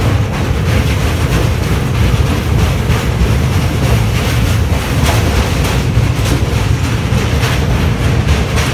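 Indian Railways express train's coaches running along the track: a loud, steady rumble with the clatter of wheels over the rails.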